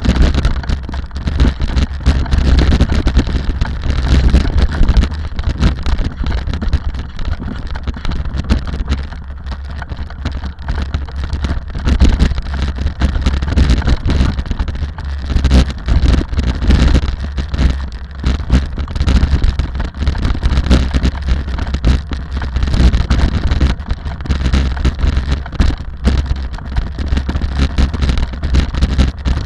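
Rally car driving at speed: a steady low rumble of engine and road noise broken by frequent short knocks, with wind buffeting the microphone.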